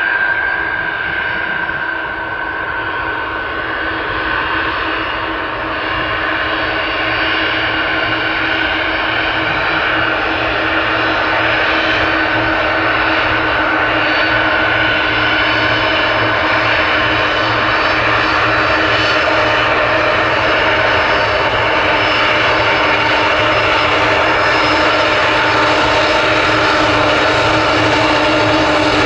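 Aircraft engines running with a steady noise and several held tones, slowly getting louder.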